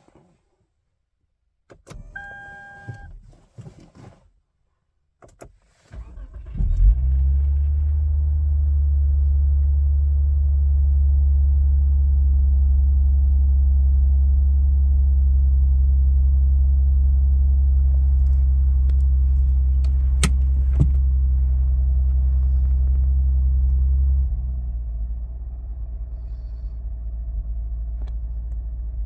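A short beep about two seconds in, then the Lexus IS 250's 2.5-litre V6 is cranked and catches about six and a half seconds in and idles steadily. About 24 seconds in the idle drops lower and quieter.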